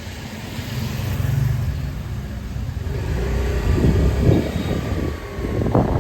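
Street traffic: a motor vehicle engine running close by, with a low steady hum at first and busier, irregular street noise building from about halfway in.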